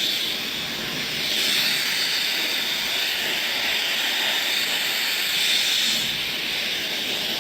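Yoole high-speed hair dryer running on the hair, a steady, loud rush of air. The rush swells a little about a second in and eases slightly near the end.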